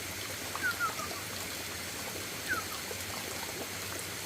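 Steady rush of running water, like a stream trickling over stones, with a few short falling chirps: three quick ones about half a second in and one more a little past the middle.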